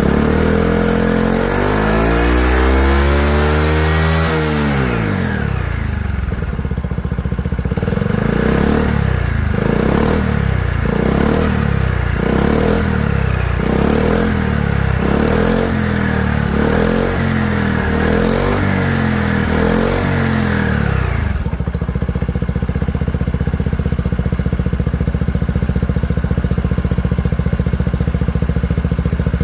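Honda PCX125's single-cylinder four-stroke engine breathing through an IXIL XOVC aftermarket exhaust. It revs up in one long pull and drops back, then is blipped repeatedly in quick short revs about once a second, and about two-thirds of the way through it settles into a steady idle.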